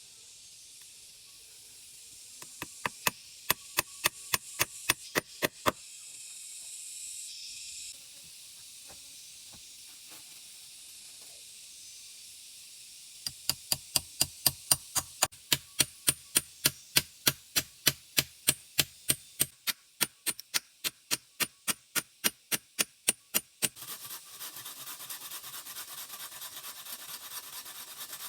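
A tool striking repeatedly in chopping or hammering work: sharp, regular knocks about three a second, in a short run near the start and a longer run of about ten seconds through the middle, over a steady high hiss. Near the end the knocking gives way to a steady rasping rub.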